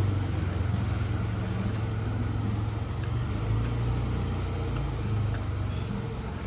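Street ambience dominated by a steady low rumble of motor traffic.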